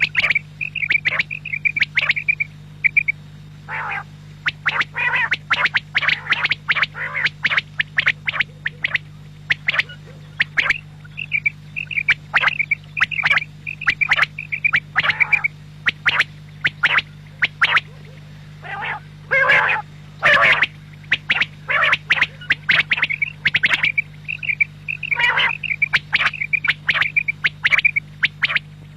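Quail calling over and over: quick trains of short high notes alternating with louder, harsher calls, the series running on without break, over a steady low hum.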